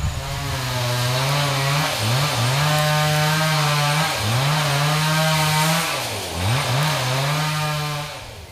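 Small engine running fast, its pitch dipping and recovering three times as if briefly loaded, then fading away near the end.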